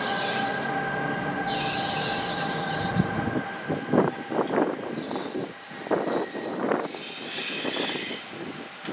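New Jersey Transit electric train pulling away along the rails. A steady whine runs for the first three seconds, then the wheels squeal and clatter, with a thin high squeal held for a few seconds near the end.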